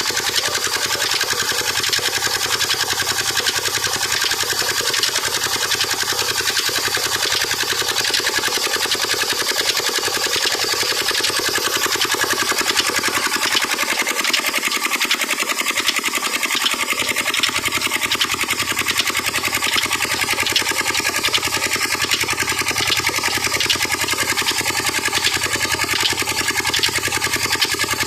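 Old Petter stationary diesel engine running steadily at a fast, even beat.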